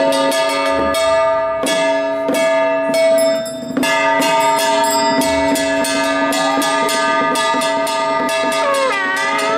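Temple procession percussion: gongs and cymbals struck in quick, regular succession over steady ringing metal tones, with wavering pitched notes coming in near the end.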